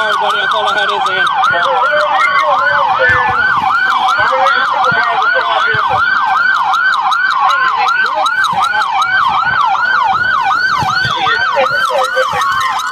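Police car siren on yelp: a fast, evenly repeating rise-and-fall wail, about three cycles a second, with a second, slower siren sweeping underneath it.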